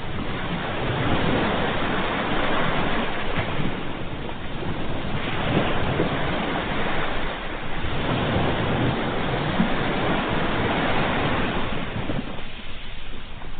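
Ocean waves breaking and washing on shore, a steady rush of surf that swells and ebbs, easing briefly near the end.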